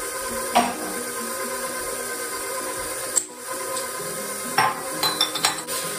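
KitchenAid Professional stand mixer running steadily, its beater working thick cheesecake batter of cream cheese and eggs. A few short sharp knocks land over it, one about half a second in and several close together near the end.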